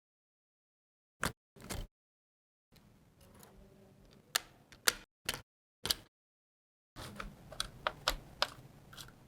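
Sharp clicks and light taps of small hard parts of a diecast model car being handled, in short separate bursts. A busier run of rapid clicking comes in the last few seconds.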